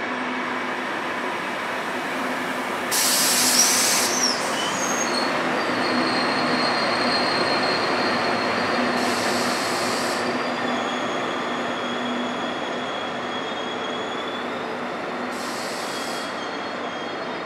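ÖBB Class 1116 Taurus electric locomotive and its coaches rolling slowly along the platform with steady rolling noise and high wheel and brake squeal, as the train slows to a stop. Three short bursts of high-pitched noise come a few seconds apart.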